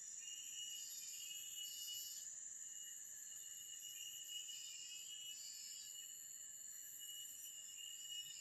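Faint forest ambience of insects trilling steadily at several high pitches at once, one of them swelling and fading every second or so.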